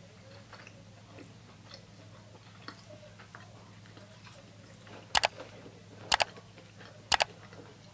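Soft chewing of a fried chicken finger, then three sharp mouse-click sound effects about a second apart from an animated like-and-subscribe button.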